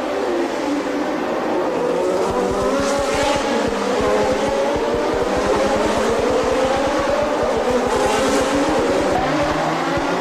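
1988 Formula One cars racing, their high-revving engines rising and falling in pitch through the gears, with more than one engine heard at once.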